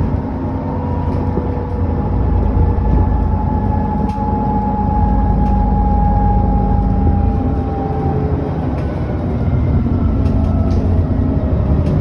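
ADL Enviro400 double-decker bus heard from on board, engine and drivetrain running under way with a steady low rumble. A whine slowly falls in pitch over several seconds, and short rattles sound now and then.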